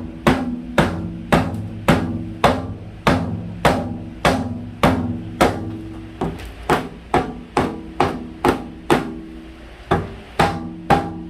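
Steady hammer blows on steel, about two a second, the metal ringing after each strike.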